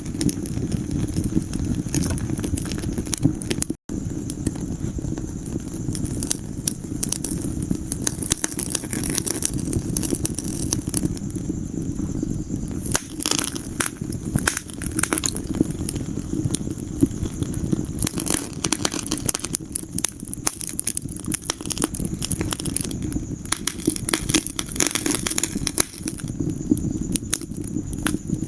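Wood fire crackling and popping in a fireplace, irregular sharp snaps over a steady low rumble of the flames. The sound cuts out for an instant about four seconds in.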